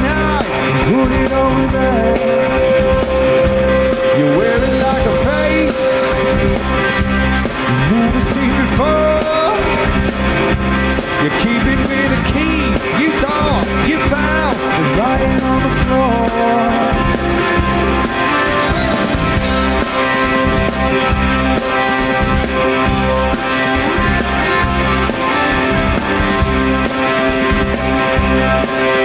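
Live rock band playing an instrumental passage: electric guitars with sliding, sustained notes over bass and a steady drum beat.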